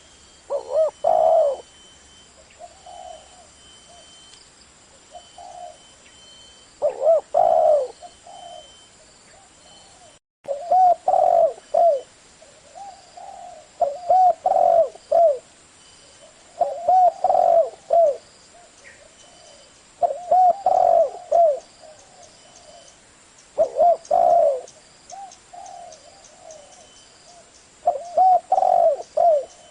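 Spotted dove cooing: short phrases of low coos repeated every few seconds, with a brief dropout about ten seconds in.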